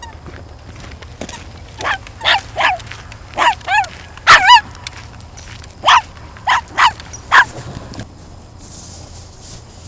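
Geese calling: a run of about eleven short, loud, yelping honks, some wavering in pitch, that stops about three-quarters of the way through.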